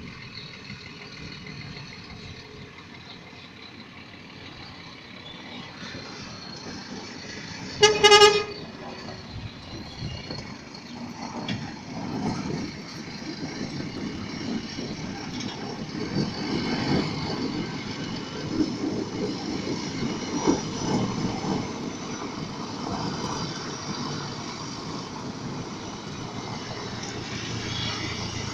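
A Scania truck sounds its horn once, loud and brief, about eight seconds in. Its diesel engine rumble then builds and carries on louder through the rest.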